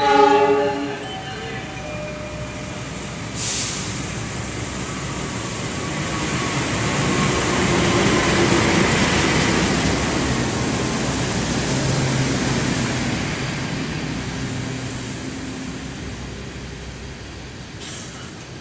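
Train running on rails: a steady rumble and rush that swells to its loudest about halfway through and then fades. A brief pitched tone sounds at the start, and a single sharp clack comes about three and a half seconds in.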